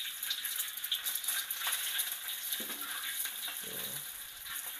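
Peeled boiled eggs sizzling and crackling in hot oil in a wok over high heat, stirred and turned with a metal spatula.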